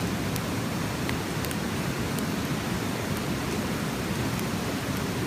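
A mountain river rushing steadily, with a few faint pops and crackles from a wood campfire scattered through.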